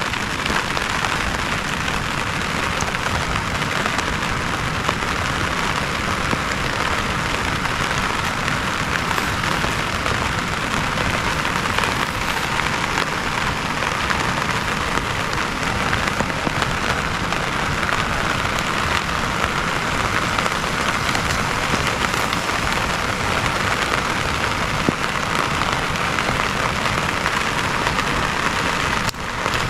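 Heavy rain falling steadily: a dense, even hiss of drops, with a brief dip just before the end.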